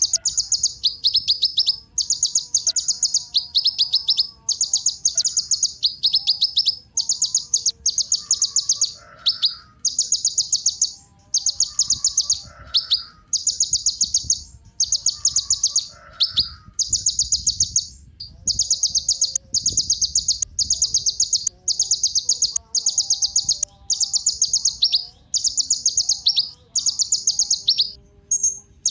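Kolibri ninja sunbird singing: high, rapid trilled phrases about a second long, repeating one after another with only brief gaps.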